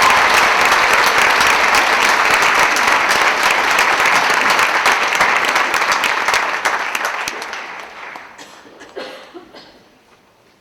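Audience applauding, dense clapping that dies away about eight seconds in, leaving a few scattered claps.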